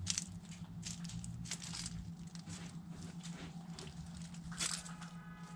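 Chickens pecking and tearing at food scraps: a rapid, irregular run of pecks and crunches. A chicken's call starts near the end, over a steady low hum.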